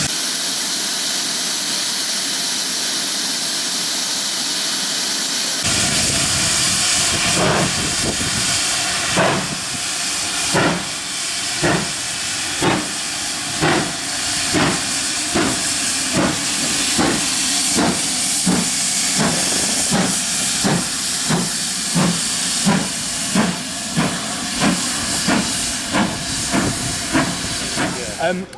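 Steam locomotive: a steady hiss of escaping steam, which abruptly gives way about six seconds in to slow, regular exhaust chuffs about one a second, as it works a train, over a continuing hiss.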